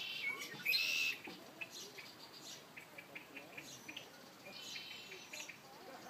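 Songbirds singing in a thicket: a loud rapid song phrase about a second in and a softer one near the end, with scattered short high chirps between.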